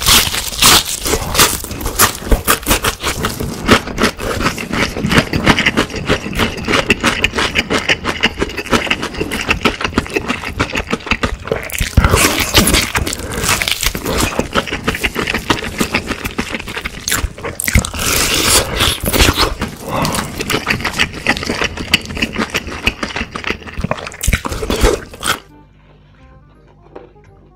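Close-miked crunching and chewing of crispy fried chicken batter, a dense run of crackling bites with a few louder crunches. Near the end the crunching stops and only faint music is left.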